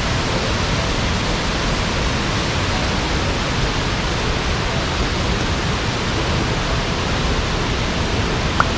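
Waterfall: a steady, unbroken rush of falling water. A single brief click near the end.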